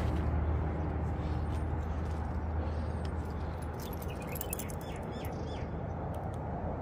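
A bird calling a quick run of about five short, falling chirps about four seconds in, over a steady background rush of outdoor noise.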